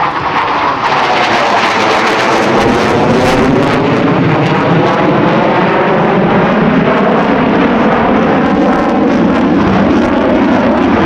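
McDonnell Douglas F-15C Eagle jet fighter making a low pass on afterburner, its twin Pratt & Whitney F100 turbofans giving loud, steady jet noise. The noise builds over the first second and takes on a sweeping, phasing sound as the jet goes by.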